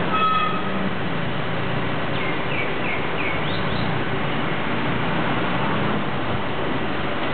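A queue of small Perodua Viva hatchbacks idling with a steady engine and traffic noise. A short pitched beep sounds just after the start, and a few short bird chirps come about two to four seconds in.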